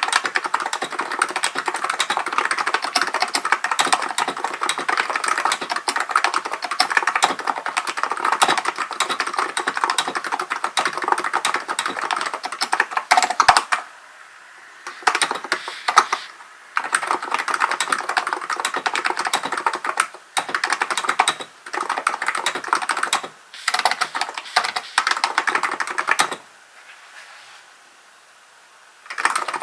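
Typing on a Hansung GK898B electro-capacitive (non-contact) keyboard. It starts with a steady, fast run of keystrokes for about fourteen seconds, then breaks into shorter bursts separated by brief pauses. Near the end there is a pause of about three seconds before the typing picks up again.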